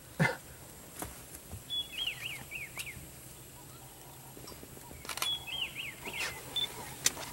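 A songbird sings the same short phrase twice, a brief high whistle followed by a quick run of four arched chirps, against a quiet open-air background. A single short loud noise comes just after the start, with a few faint clicks later.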